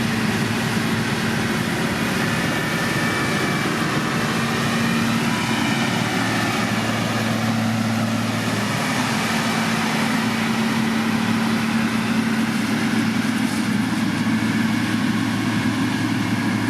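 Diesel engine of heavy road-construction machinery running steadily, with a steady hum; a second, lower tone joins about six seconds in.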